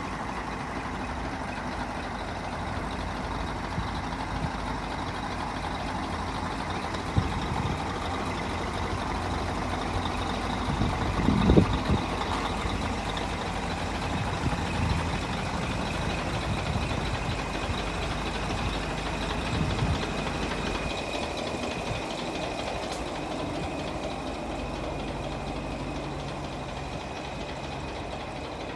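Scania R420's straight-six diesel engine idling steadily, with a brief louder swell about eleven seconds in and a single sharp click around seven seconds.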